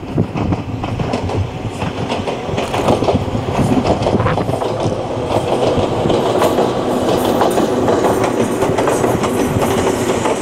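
Ohmi Railway 822F electric train running past on the line, its wheels clacking over the rail joints, growing louder as it nears.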